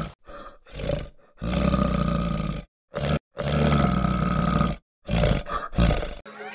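A large animal roaring in a series of deep, loud calls with short gaps. Two long roars of about a second and a half come in the middle, and shorter ones come near the end.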